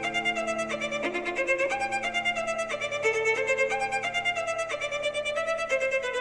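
Music led by a violin playing a quick run of notes over a held low note.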